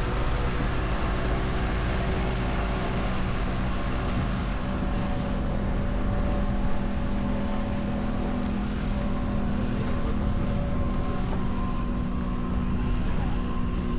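Parasailing tow boat's engine running steadily at an even pitch, with wind noise on the microphone.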